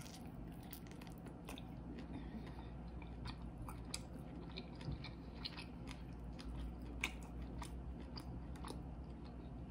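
Close-up mouth sounds of a person chewing tender broiled lobster tail meat: soft wet chewing with scattered sharp lip-smacking clicks.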